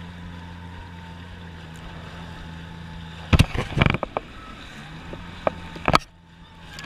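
Jet ski engine running slow and steady at no-wake speed, a low even hum. A cluster of loud sudden thumps comes a little past three seconds in and another just before six seconds, after which the engine sound briefly drops away.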